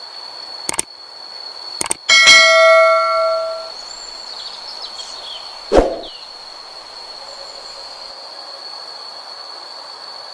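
A few sharp knocks, then a metal object struck hard about two seconds in, clanging and ringing for about a second and a half, and another sharp knock near six seconds, over a steady high-pitched whine.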